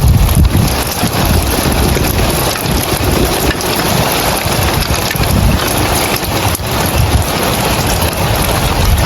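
Rain falling on roof tiles in a steady hiss, with gusts of wind rumbling on the microphone.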